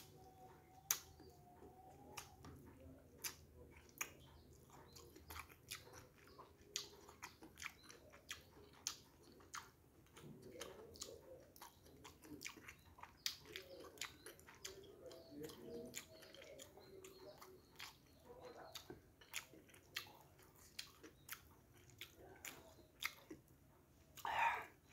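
A person chewing and crunching fried fish close to the microphone: many short, sharp crunches and mouth clicks, with a louder short sound about a second before the end.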